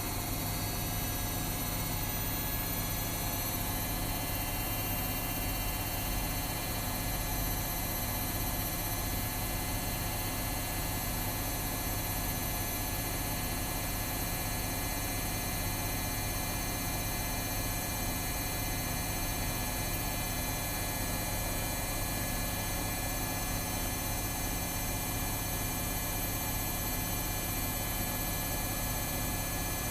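Washing machines running on a delicates cycle: a steady motor hum with several constant whining tones, no change in rhythm.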